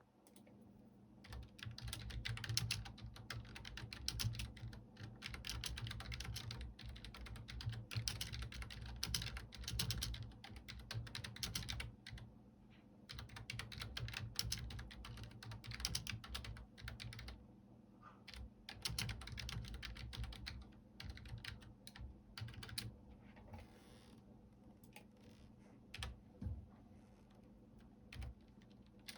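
Typing on a computer keyboard: quick runs of key clicks starting about a second in, with short pauses between bursts and sparser, scattered keystrokes in the last few seconds.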